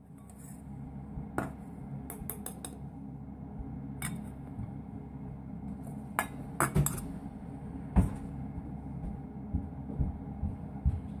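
Cookware and utensils clinking and knocking, a dozen or so sharp separate clicks over a steady low rumble.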